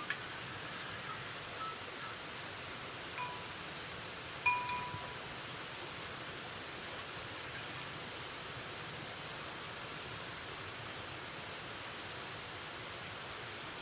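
A few light, ringing clinks of utensils against a bowl, the loudest about four and a half seconds in, over a steady hiss and a constant high-pitched whine.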